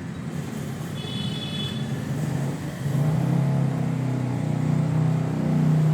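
A motor vehicle engine running steadily, growing louder about three seconds in. A brief high-pitched tone sounds about a second in.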